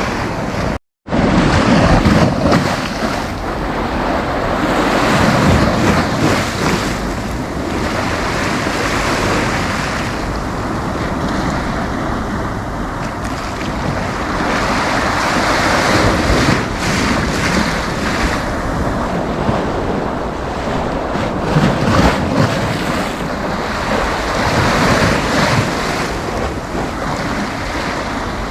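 Sea waves breaking and washing up the beach, the surf swelling and falling every few seconds, with wind buffeting the microphone. The sound cuts out completely for a moment about a second in.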